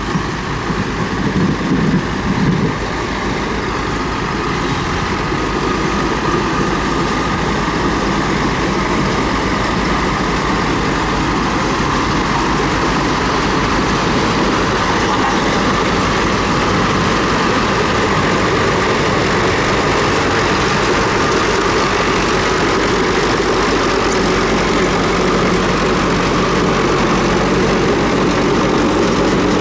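Komatsu D31P bulldozer's diesel engine running steadily.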